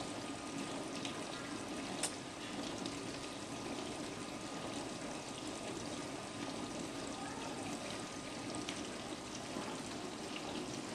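Frigidaire Gallery dishwasher with a plastic tub running its normal wash cycle: water spraying steadily against the dishes over the hum of the wash pump, with a single sharp click about two seconds in.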